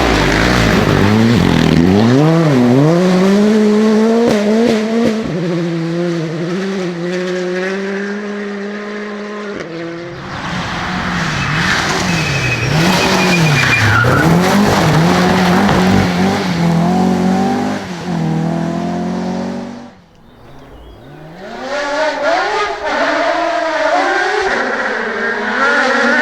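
Rally cars driven flat out on a stage, engines revving hard and dropping back through gear changes and braking, with tyre squeal. The sound is several separate passes, with a brief dip about three-quarters of the way through before another car comes in revving.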